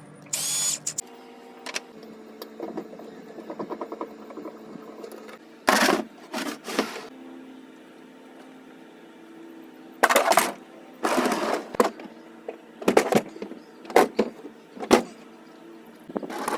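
Loud knocks and clatter from parts being handled, with a brief run of rapid ticking early on, over a steady low hum.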